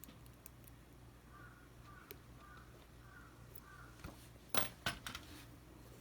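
Small hard clicks and taps from handling the little parts of a shoe's wire-lacing dial during repair. A quick cluster of sharper clicks comes about four and a half seconds in.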